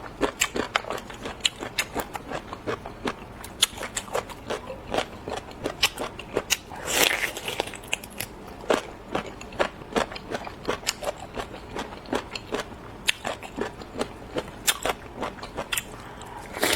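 Close-miked chewing of marinated cold seafood: a quick, uneven run of crisp crunches and crackles as the food is bitten and chewed, with a longer, louder noisy stretch about seven seconds in.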